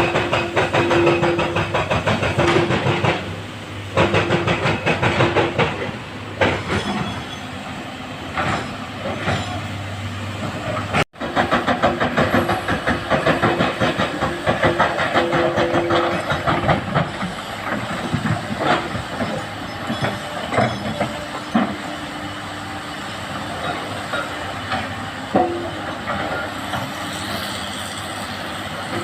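Komatsu hydraulic excavators' diesel engines and hydraulics running under load while rock is dug and dropped into a dump truck's steel bed, a continuous irregular clatter and clanking of stone on metal. The sound breaks off for an instant about eleven seconds in.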